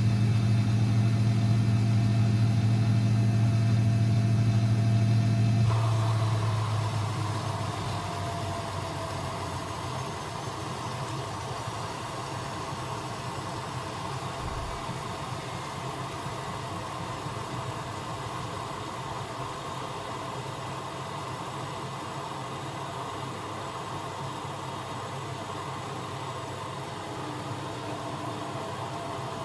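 Constructa Energy 1000s washing machine running: a loud steady hum for about six seconds, which then stops and dies away over a few seconds. A quieter steady whir carries on after it.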